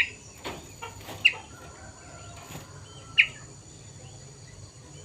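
Caged kutilang sutra songbird calling: three short, sharp chirps, each dropping quickly in pitch, spaced one to two seconds apart.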